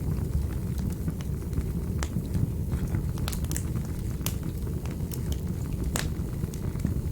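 Wood fire burning in a fireplace: a steady low rumble of flame with scattered sharp crackles and pops, the loudest pops about two, four and six seconds in.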